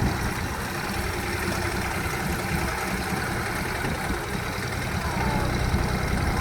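Tractor engine running steadily at low speed with an even, low hum.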